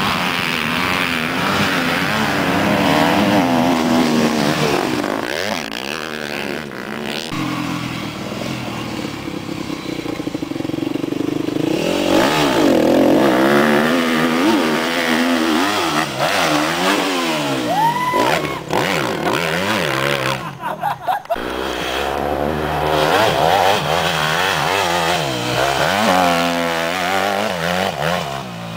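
Motocross bike engines revving up and down again and again, the pitch climbing and falling with throttle and gear changes. The sound breaks off briefly about two-thirds of the way through.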